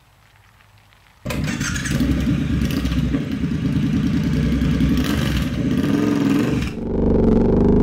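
Triumph Scrambler 1200 parallel-twin motorcycle engine running, cutting in suddenly about a second in with a rushing hiss over the engine note. Near the end the sound briefly dips, then the engine note comes back and climbs slightly.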